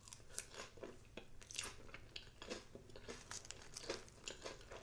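Close-miked crunching and chewing of a mouthful of crisp lettuce salad: a faint, irregular run of small crunches.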